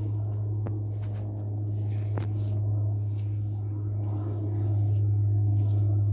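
A hairbrush stroking through long hair, a few soft swishes about a second apart with a couple of small clicks, over a loud steady low hum.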